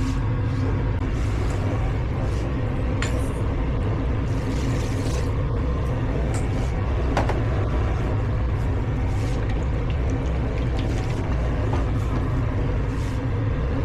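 Steady low mechanical rumble of kitchen equipment running, with a few light clicks and knocks near three and seven seconds in.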